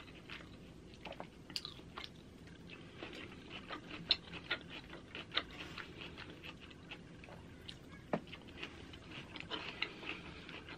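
A person chewing and biting food close to the microphone, with many small wet mouth clicks and smacks, and a fork tapping on a wooden cutting board while cutting a pork chop; one sharper knock comes about eight seconds in.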